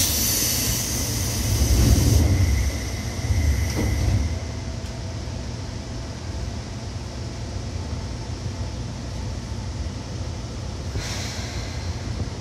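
Seibu 2000 series electric train running, heard from inside the car: a steady rumble of wheels on rail. A loud rush of hiss opens and lasts about two seconds, with a thin high tone under it, and a second rush of hiss comes near the end.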